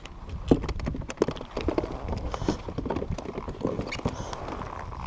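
Quick irregular knocks and rattles close to the microphone, several a second, over a low rumble: handling noise from gear or a fish on the kayak.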